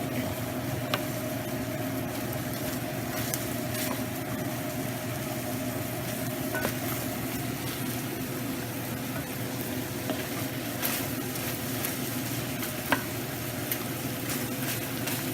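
Chunks of boneless chicken breast sizzling as they fry in a pan on a stovetop burner turned up high, with a steady hum behind and a few light clicks.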